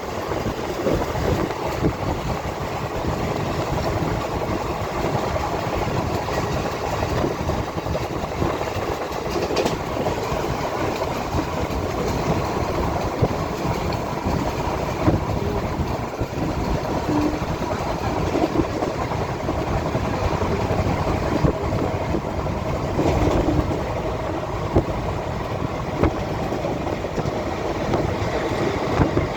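Purushottam Express passenger train running at speed: a continuous rumble and rattle of steel wheels on the rails, with a few sharper clacks.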